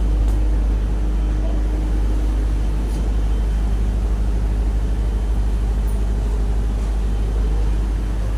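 A steady low mechanical drone with a constant hum, unchanging in pitch and level.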